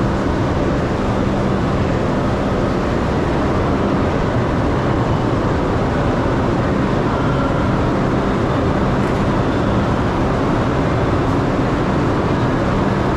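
New York City subway train running, a steady loud rumble with a low hum underneath.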